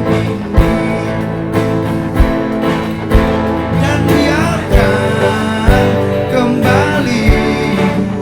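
Live band music: guitar playing over a low drum beat that lands about once a second, with a gliding melodic line in the middle.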